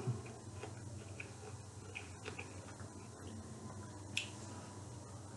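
Quiet eating sounds: chewing a mouthful of chicken Caesar salad, with scattered faint small clicks and one sharper tap about four seconds in.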